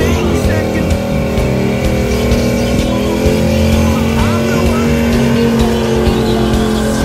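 Holden VY Calais's LS1 V8, breathing through headers and a custom exhaust, held at steady high revs during a burnout while the rear tyres spin on the tarmac.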